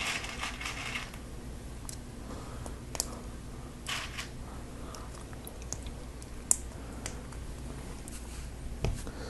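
Plastic Lego Technic pieces being handled and fitted together: a brief rattling shuffle at the start, then scattered sharp plastic clicks, the loudest about six and a half seconds in.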